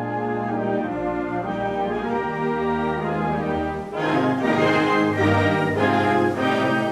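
Orchestral music with brass playing sustained chords, growing louder with more marked notes from about four seconds in.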